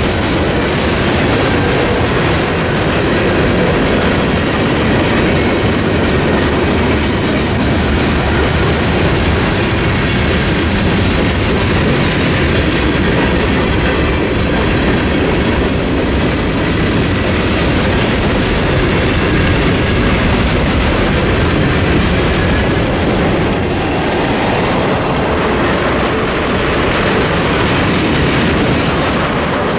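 Freight cars of a mixed freight train rolling past over the crossing: a loud, steady rumble of steel wheels on rail.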